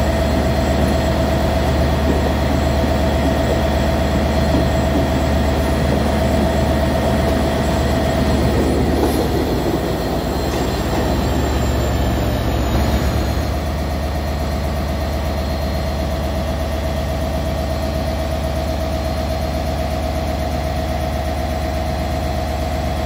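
Passenger train pulling out: coaches rolling past over a steady diesel engine drone. The rolling rumble fades about thirteen seconds in, leaving the steady engine drone.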